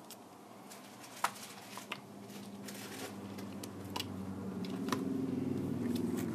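Small clicks and taps of tools and plastic parts being handled while working on a tablet, with a low hum that grows louder through the second half.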